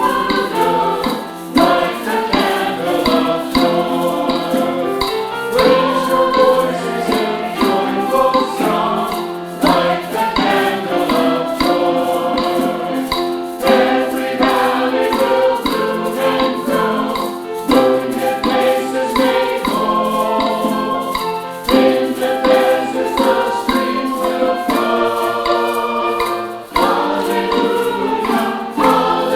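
Church choir singing with instrumental accompaniment, many voices together over a steady beat.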